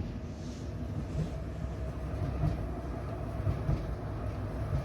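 Kenmore dryer running with its drum turning: a steady low rumble with irregular soft thumps.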